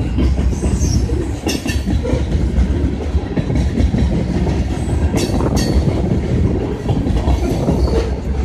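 Railroad cars rolling past, a steady heavy rumble with wheels clacking over the rail joints, and sharp metallic clanks about a second and a half in and twice around five seconds in.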